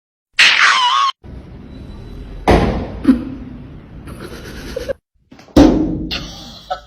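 A short meow with a wavering, falling pitch, then two loud thumps about three seconds apart.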